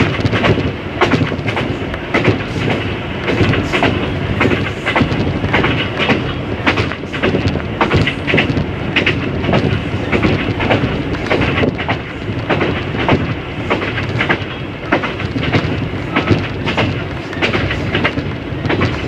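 Train running along the track: a steady rumble with frequent, irregular clicks from the wheels on the rails.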